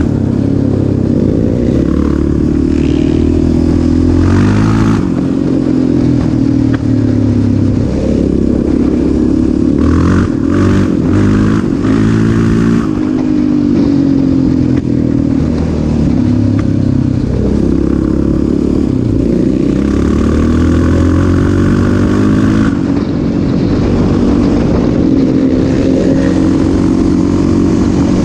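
Single-cylinder off-road engine running hard, its pitch rising and falling again and again as the throttle is opened and closed while riding. It is loud throughout.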